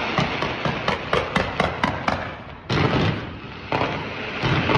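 Fireworks launched from a tower: a rapid string of pops and crackles, then a sudden louder blast about two and a half seconds in that dies away, and another about a second later.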